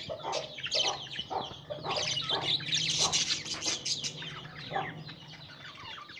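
Budgerigars chirping and chattering in a dense run of rapid, short, high calls, busiest about three seconds in and thinning out near the end.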